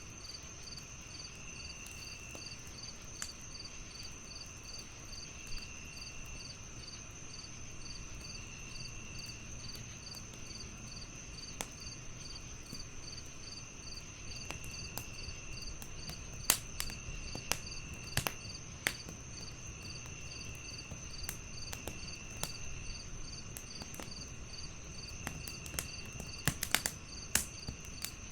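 Several crickets chirp all through: one steady high trill, one pulsing chirp repeating evenly and a lower trill in on-off spells of about a second. Over them a wood fire crackles, with sharp pops scattered through and loudest in groups about two-thirds of the way in and near the end.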